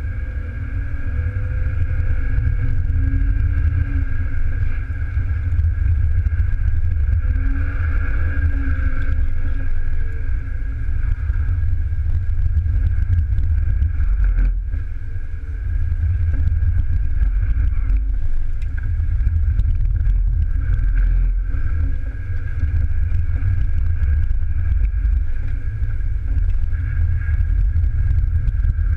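BMW E36 320i's straight-six, heard from inside the cabin while it is driven hard on a slalom course. The engine note rises and falls with the throttle over a heavy low rumble of road and tyre noise, easing off briefly twice in the middle.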